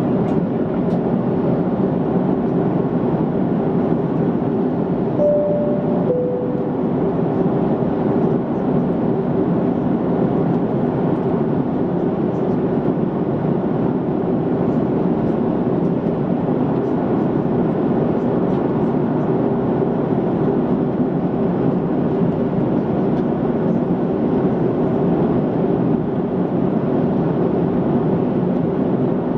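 Steady cabin drone of an Airbus A330-200 in flight, engines and airflow heard from the passenger cabin. About five seconds in, a two-tone cabin chime sounds once, a higher note falling to a lower one.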